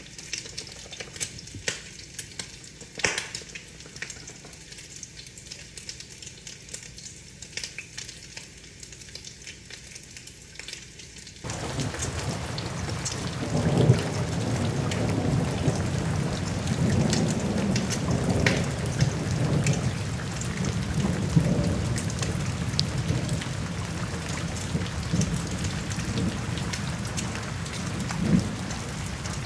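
Rain on a window: a steady hiss with sharp drop taps. About eleven seconds in it cuts abruptly to louder rain with a low, uneven rumble underneath.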